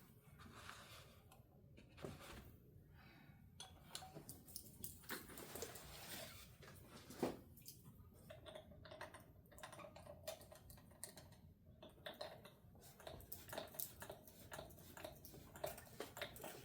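Faint handling noise: irregular light clicks and taps, with one sharper click about seven seconds in.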